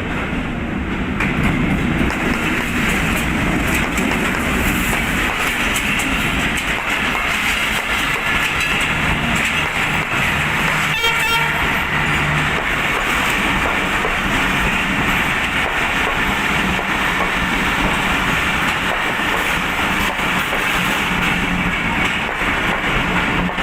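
Passenger train rolling through a station, the coaches giving a loud, steady rumble on the track.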